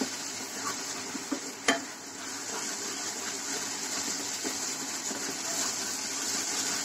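Spice paste of ground onion, garlic, ginger and powdered spices sizzling steadily in oil in a frying pan while a spatula stirs and scrapes it; the masala is being cooked down with a splash of water. A spatula knocks sharply against the pan once, under two seconds in.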